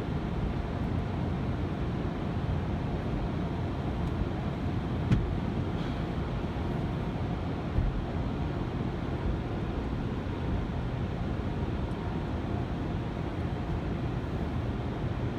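Automatic car wash running: a steady rumble of machinery and water spray, with a short knock about five seconds in and another a little under eight seconds in.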